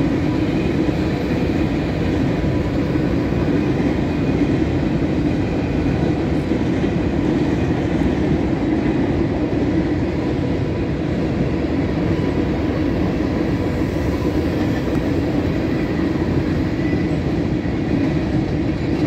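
Freight cars of a long CSX mixed freight train rolling past at a grade crossing: a steady, unbroken rumble of steel wheels on rail.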